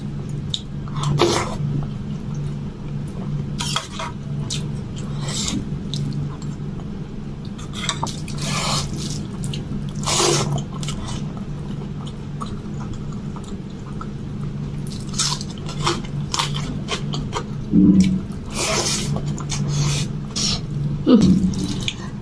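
Close-up eating sounds: wet chewing and mouth smacks of a person eating rice mixed with palak paneer by hand, coming in irregular short bursts. A steady low hum runs underneath.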